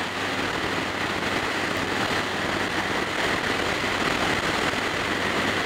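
Yamaha Star Raider's big V-twin engine running steadily at highway cruising speed, mixed with steady wind and road rush.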